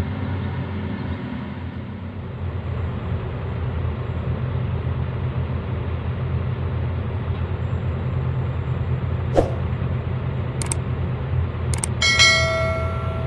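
Heavy diesel haul truck engine running with a steady low rumble, with a few sharp clicks. Near the end a horn sounds briefly, for about a second.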